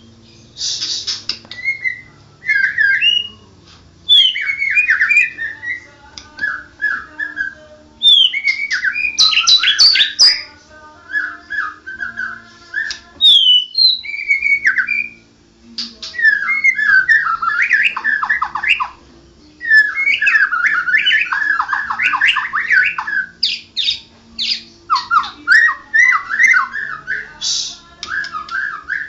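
White-rumped shama (murai batu) singing a long run of rapid, varied whistled and chattering phrases, broken by short pauses. The song lacks its loud 'tembakan' shot notes, which the keeper puts down to the bird being in heavy moult.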